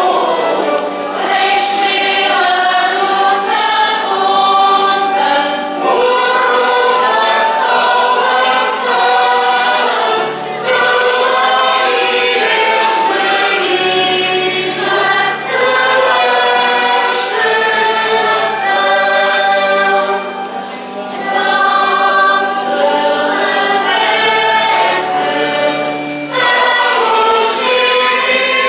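Choir singing a hymn in phrases, over held low accompanying notes.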